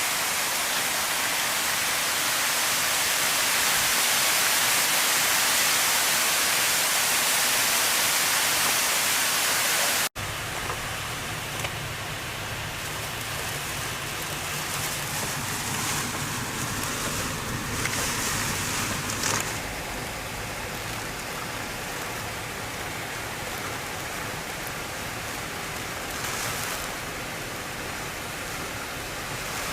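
Hurricane wind and rain: a loud, steady hiss. About a third of the way in it cuts abruptly to a slightly quieter stretch, where a low rumble runs under the hiss.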